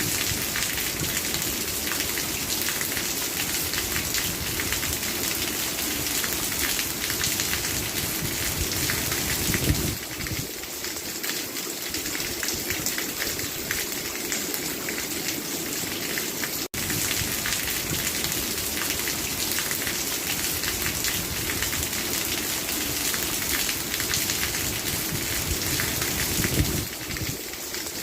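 Steady rain falling on a hard surface, a dense, even patter of drops. There is a momentary break in the sound about two-thirds of the way through.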